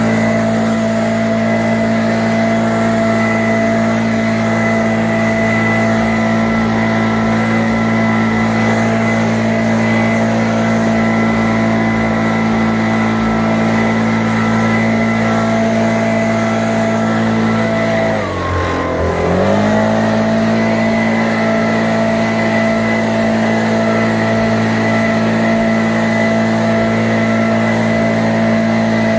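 Exmark 48-inch mower's engine running steadily at full throttle with its new spark plugs. About two-thirds of the way in it briefly bogs down, the pitch dipping, then recovers to speed.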